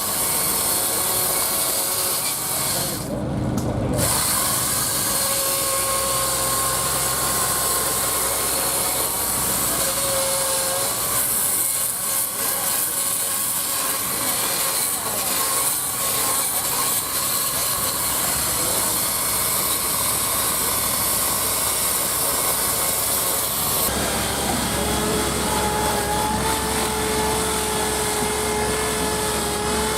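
Two-stroke chainsaw running and cutting into wood, its engine pitch shifting as it bites. About 24 seconds in, the engine note drops and holds steady.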